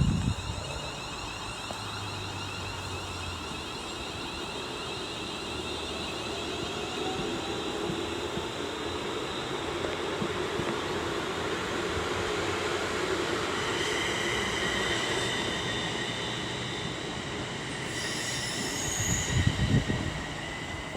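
Class 350 Desiro electric multiple unit pulling away from the platform, its traction motors whining in a tone that rises as it picks up speed, with wheel squeal near the end.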